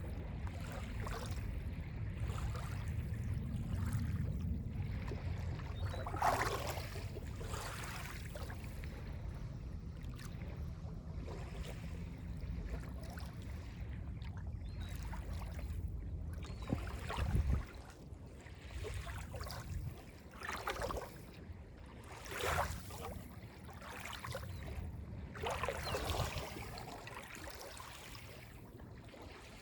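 Small Lake Ontario waves lapping and breaking on a beach, arriving as separate washes every few seconds over a low steady rumble that drops away about two-thirds through.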